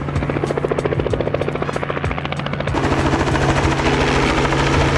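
Helicopter arriving: rotor blades chopping rapidly over a steady engine hum, growing louder about halfway through as it comes in.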